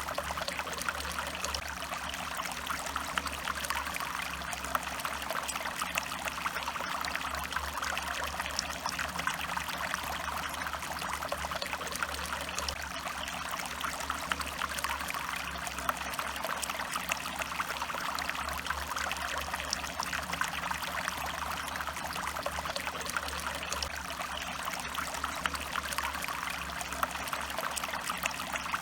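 Stream water running and trickling steadily over rocks, a dense even splashing with fine crackle.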